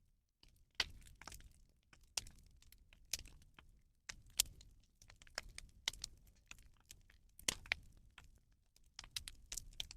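Rubbish bonfire crackling, with irregular sharp cracks and pops over a low rumble.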